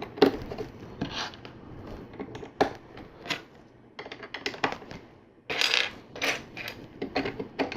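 Hard plastic LEGO pieces clicking and clattering against one another as they are handled and fitted together, a string of separate small clicks with a busier run near the end.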